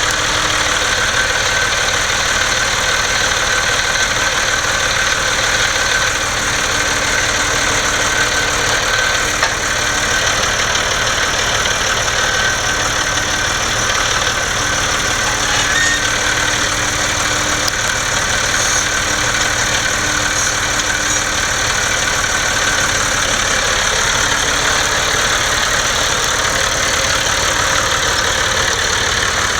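John Deere 5065E tractor's diesel engine idling steadily just after starting up.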